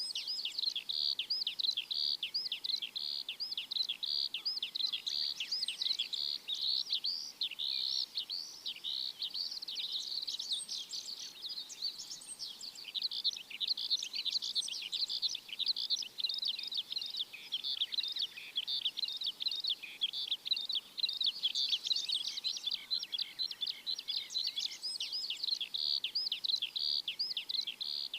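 A flock of small birds chirping continuously: a dense, overlapping chorus of short, quick, high chirps with no pause.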